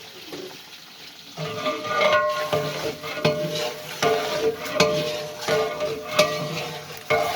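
Chicken pieces frying in ghee with onions in a large cooking pot. The sizzle starts suddenly about a second and a half in, and a metal ladle stirs and scrapes in repeated strokes.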